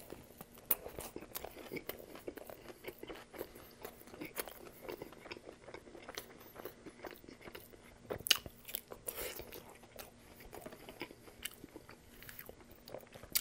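Close-miked chewing of a toasted sub sandwich on Italian herbs and cheese bread with bacon and vegetables: a bite into the crisp toasted crust, then continued wet chewing full of small crunches and mouth clicks, with one louder crunch about eight seconds in.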